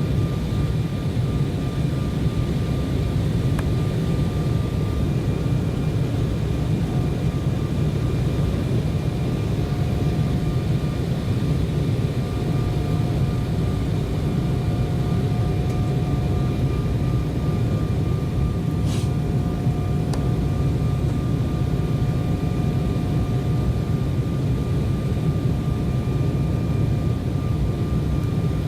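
Steady cabin roar of an Embraer 190 jet airliner in flight, its turbofan engines and rushing airflow heard from a passenger seat, with a faint steady high whine over the deep rumble.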